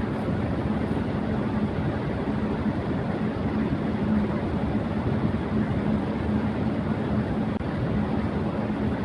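Electric fan running at high speed: a steady rush of air with a low steady hum underneath.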